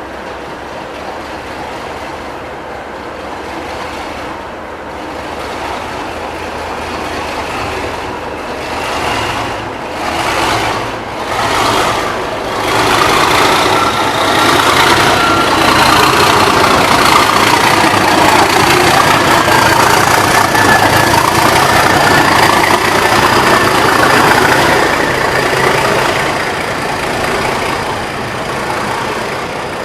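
Class 37 diesel-electric locomotives, with English Electric 12CSVT V12 engines, working under power as they haul a train of empty coaches away. The engines grow much louder about twelve seconds in and ease off near the end, with a high whistle slowly rising in pitch through the loud part.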